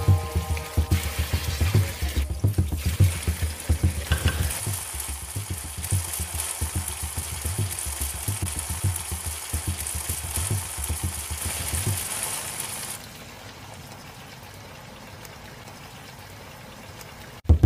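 Food sizzling in hot oil in a cooking pot, a steady hiss with a dense low pulsing beneath it. About thirteen seconds in the pulsing stops and the sizzle goes on more quietly.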